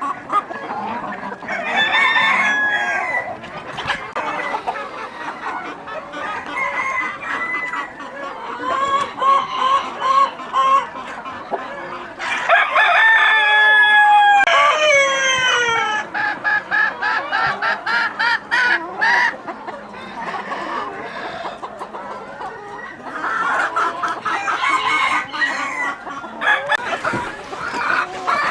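A flock of chickens clucking continuously. About halfway through a rooster crows once, a long call that falls in pitch at the end and is the loudest sound in the stretch.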